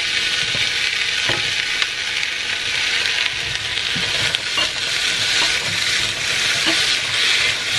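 Chicken meatballs, onion and diced potato sizzling in oil in a non-stick frying pan while being stirred with a silicone spatula, with a steady hiss and a few light knocks of the spatula against the pan.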